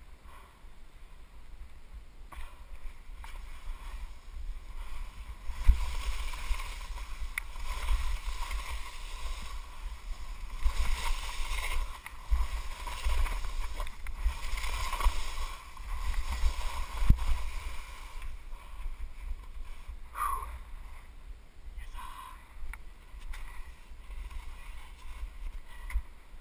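Skis hissing and scraping over snow through a series of turns, swelling and fading every couple of seconds, with wind rumbling on the microphone.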